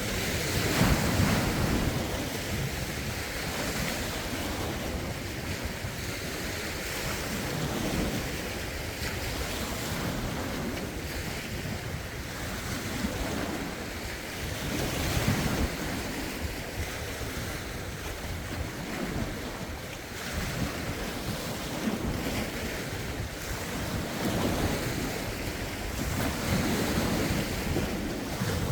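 Lake waves washing in, with a swell every few seconds, under a rough wind that buffets the microphone.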